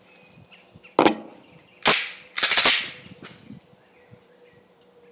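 Three pistol shots, about a second apart at first, with the last two in quicker succession, each a sharp crack with a short echo.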